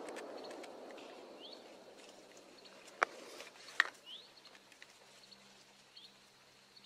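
Faint woodland ambience: a small bird gives short, rising chirps every second or two. A soft rushing noise fades out in the first second or so, and two sharp clicks come about three and four seconds in.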